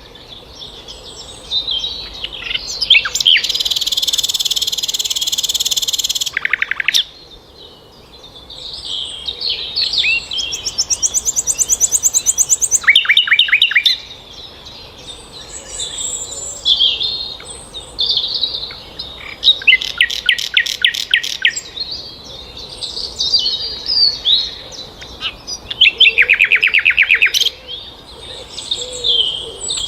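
Songbirds chirping and trilling: high, quick chirps broken by several rapid trills and one long buzzy stretch, with abrupt changes between passages.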